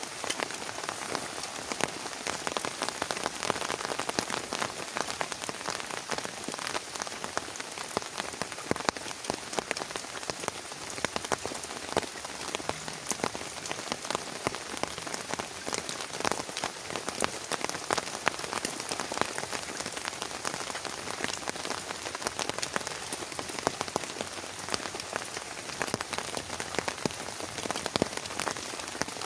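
Heavy rain falling steadily, with many individual drops striking a surface close by as a dense patter of sharp ticks.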